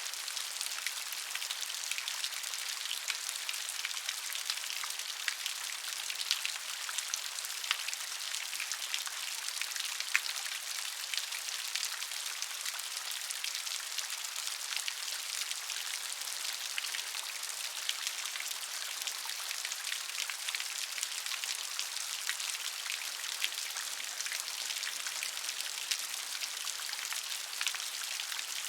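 Gentle rain falling steadily, a dense even patter of fine drop ticks with no thunder.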